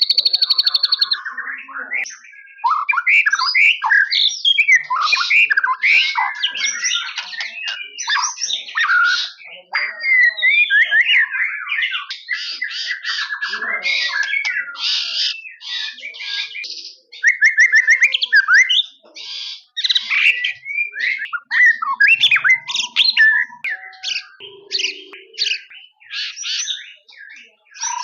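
White-rumped shama (murai batu) in full song: a long, varied run of loud whistles, rapid trills and chattering phrases, broken only by short pauses.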